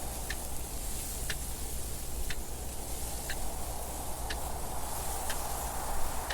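Clock ticking steadily, about one tick a second, over a steady rush of wind noise.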